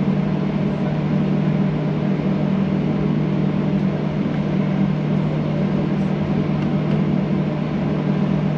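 Cabin noise of a Boeing 737-800 rolling on the ground after landing: a steady drone of engines and air conditioning with a strong, unchanging low hum.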